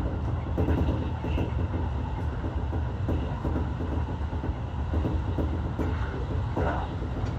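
Electric commuter train running along the track, heard from inside the front cab: a steady low rumble of wheels on rails, with occasional knocks.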